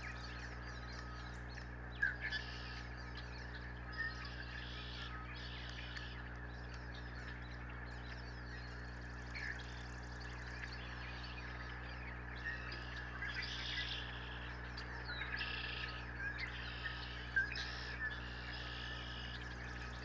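Small songbirds calling and singing: a series of short, buzzy phrases and sharp chirps, coming in clusters, over a steady low electrical hum.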